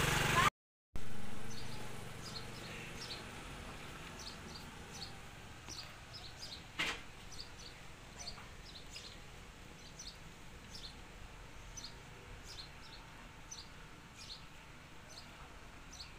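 Faint outdoor ambience: a motor scooter's engine fading away within the first couple of seconds, then short high chirps of small birds repeating every second or so over a low hiss, with one sharp click about seven seconds in.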